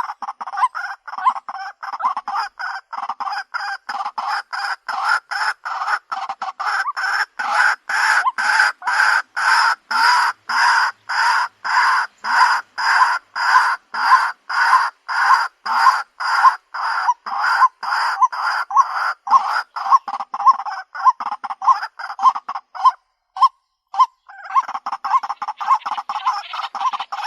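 Recorded white-breasted waterhen calls: a steady run of repeated harsh notes, about two to three a second, that breaks off briefly near the end and starts again.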